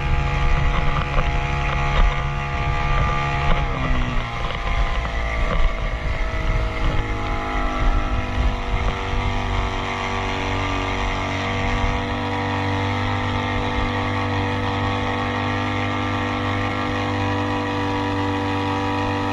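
Motorboat engine running, its pitch dropping about four seconds in and then holding a steady drone.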